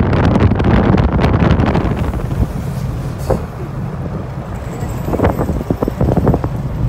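Wind buffeting the microphone on a moving motorcycle, over a low rumble. The buffeting is heaviest at first and eases about two seconds in, with a few short knocks or rattles later on.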